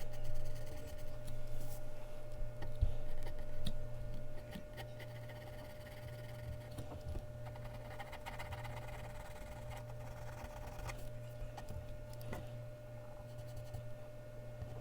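Mechanical pencil scratching on Bristol paper in drawing strokes, heavier for the first few seconds and lighter after, with small taps of the pencil. A steady electrical hum runs underneath.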